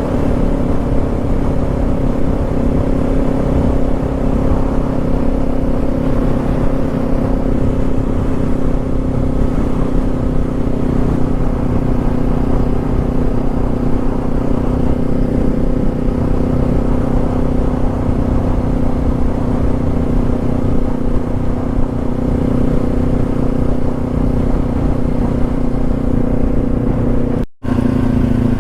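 Motorcycle engine running at a steady cruising speed on the road, with road and wind rumble beneath it. The sound cuts out for an instant near the end, then carries on the same.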